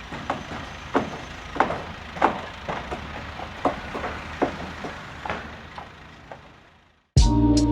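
Building-site sounds: a steady low rumble with irregular sharp knocks, like hammering, which fade out near the end. Music with drums and guitar starts just before the end.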